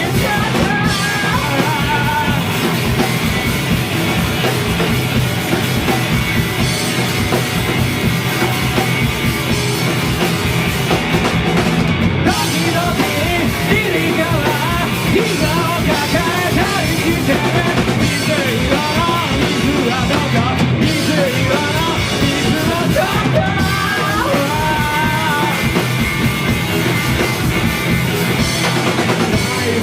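Rock band playing live: a punk-rock song with drums and a singing voice, loud and steady throughout.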